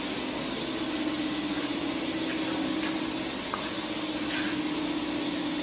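Steady hum and hiss from a powered-on Daewoo DMV5025-50 CNC vertical machining center, with one constant low tone held throughout.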